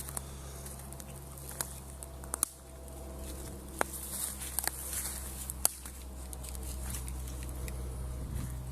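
Light scattered taps and footsteps with a few sharper clicks, over a steady low hum.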